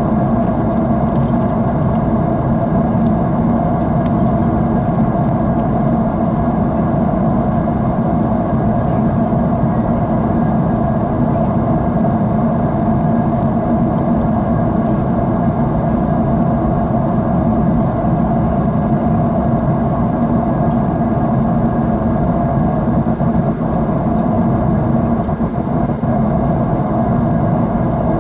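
Jet airliner's engines and airflow heard inside the cabin: a loud, steady drone that stays even throughout.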